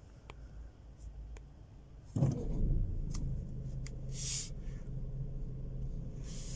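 Car engine heard from inside the cabin. After a quiet stretch with a few faint clicks, a steady low engine hum comes in suddenly about two seconds in and holds as the car moves off in slow traffic.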